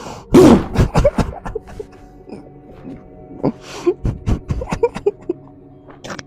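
Steady background music drone, over which a man makes loud, harsh non-verbal vocal outbursts (gasps, grunts and laugh-like sounds) in two spells, one near the start and one in the middle. The team takes him to be possessed.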